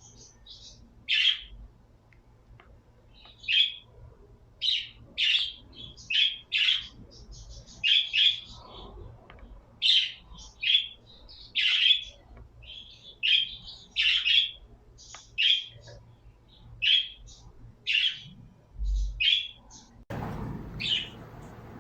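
Pet birds chirping: short, sharp chirps, one or two a second, at uneven spacing. A steady background hiss comes in near the end.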